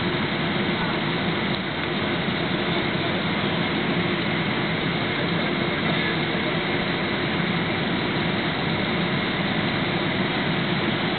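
Boeing 767 jet engines and rushing airflow heard from inside the passenger cabin on final approach: a steady, even noise with no change in level.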